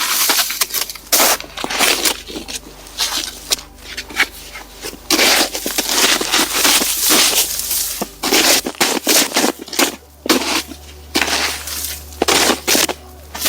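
Footsteps crunching through old, thawing spring snow: a run of irregular crunches, roughly one every half-second to second.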